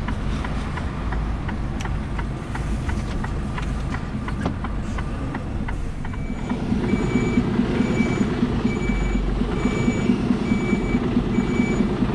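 Lorry diesel engine running. About six seconds in, the engine note rises and the reversing alarm starts beeping steadily, roughly every 0.7 seconds, as the truck backs up.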